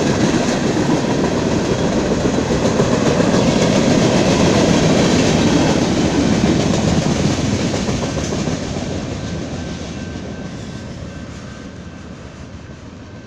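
BNSF freight train's boxcars rolling past on the rails, a steady, loud rumble of wheels and cars that fades away over the last few seconds as the end of the train goes by.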